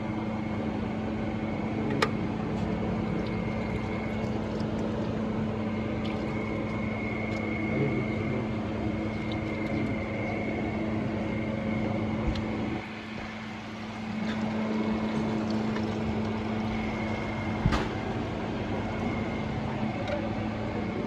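A steady machine hum with a thin high whine above it, broken by a few sharp clicks, with a short dip in level about two-thirds of the way through.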